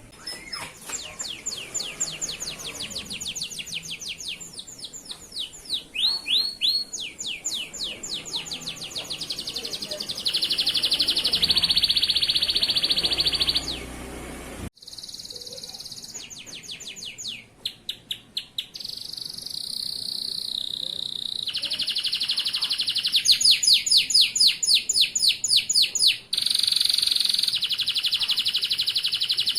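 Male canary singing, a long song of fast trills and rolls of rapidly repeated high notes, some held as steady buzzing rolls. The song breaks off abruptly about halfway through and picks up again at once.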